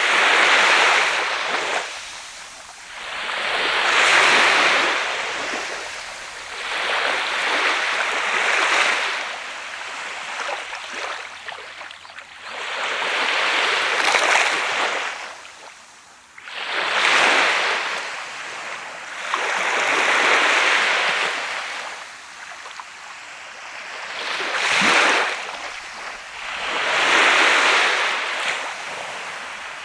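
Surf on a sandy Sea of Japan beach: small waves breaking and washing up the shore, one swell of noise every three seconds or so, each rising and ebbing away.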